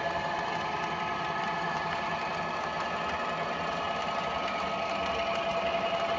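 Model railway diesel locomotive running: a steady engine-like hum with several constant tones and a fast fluttering beat.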